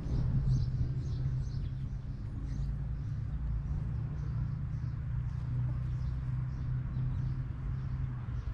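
Many short, high chirps from birds, repeating irregularly over a steady low hum.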